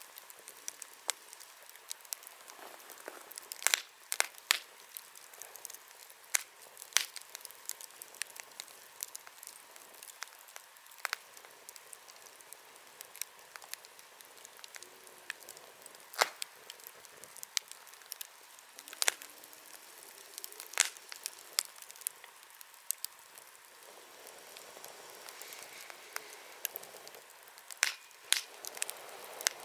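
Wood campfire crackling: irregular sharp pops and snaps of burning wood over a faint steady hiss, with a soft rush of flame swelling near the end.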